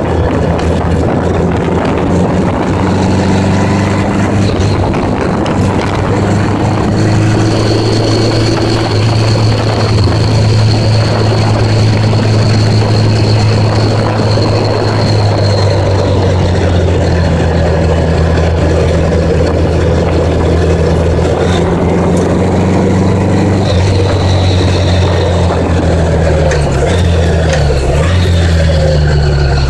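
A 1980s Honda Gold Wing motorcycle engine running steadily under way, with steady wind noise. A few seconds before the end the engine note shifts in pitch.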